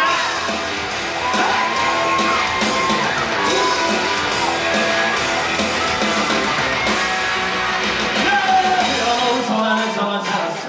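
A live rock number from a stage musical, sung by the cast with band accompaniment, with some shouted vocals. Near the end the bass drops away.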